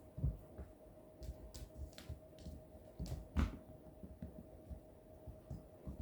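Cats playing on a floor: scattered soft thumps and light clicks, about half a dozen, the loudest about three and a half seconds in, over a faint steady hum.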